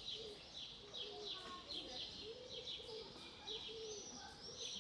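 Birds chirping, a short high chirp falling in pitch and repeated about twice a second, with lower arched notes repeating underneath.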